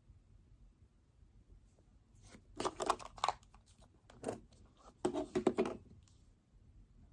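Paper and stationery being handled at a desk: three bursts of rustling, about two, four and five seconds in, between quiet stretches.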